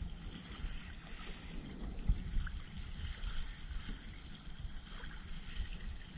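Wind rumbling on the microphone over water lapping and splashing against a kayak hull on choppy water, with a few small knocks.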